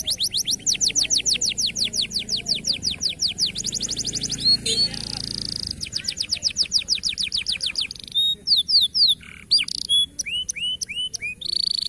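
Local canary singing a fast, rolling song: rapid trills of quick falling notes, many a second, broken twice by a held buzzy note, with slower swooping notes just after the middle.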